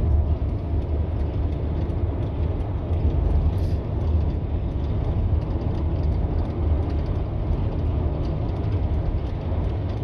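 Steady low rumble of engine and road noise inside a moving vehicle's cabin at highway speed.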